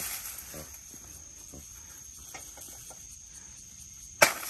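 Insects trilling steadily in a high, thin continuous tone. A single sharp knock comes near the end and is the loudest sound.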